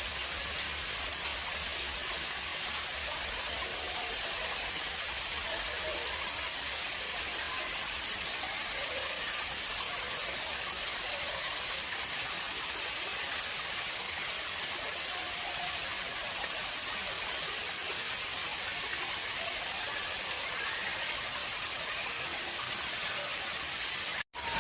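Water flowing steadily into an artificial pond, an even splashing rush. It breaks off abruptly just before the end.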